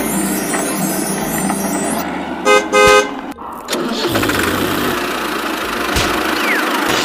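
A vehicle horn honking twice, a short toot then a longer one, a little before the middle, over steady vehicle noise.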